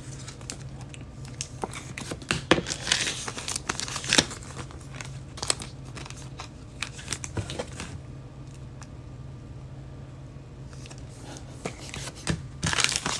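Foil trading-card pack wrappers crinkling and tearing as packs are opened and the cards handled: scattered crinkles and clicks, busiest about three to four seconds in and again near the end, over a low steady hum.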